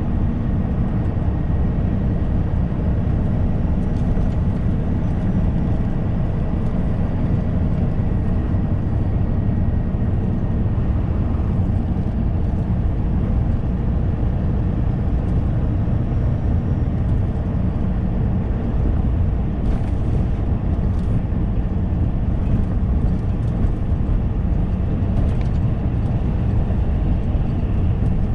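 Truck's diesel engine and road noise heard from inside the cab while driving: a steady low rumble that holds level, with a few faint clicks near the end.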